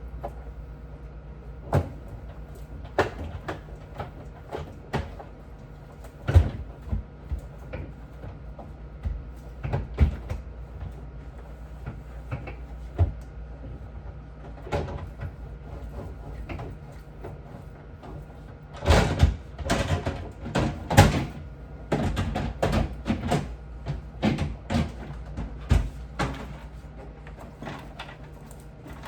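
Irregular knocks and clatters of refrigerator shelves, drawers and containers being handled and set down during cleaning, with a busier run of louder knocks about two-thirds through, over a steady low hum.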